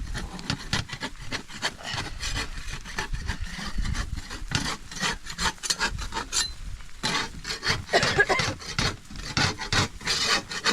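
Quick, repeated scraping strokes against wood, several a second, growing louder a little after halfway.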